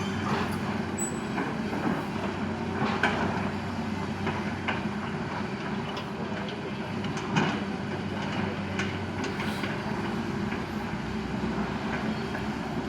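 Excavator running steadily, with scattered metallic clanks and knocks every second or two, the loudest about seven seconds in.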